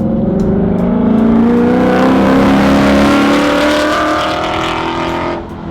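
Ford Mustang GT's naturally aspirated 5.0-litre V8, breathing through XForce long-tube stainless headers and a 3-inch stainless catback, accelerating hard down a straight. The exhaust note climbs steadily for about five seconds, then drops suddenly near the end.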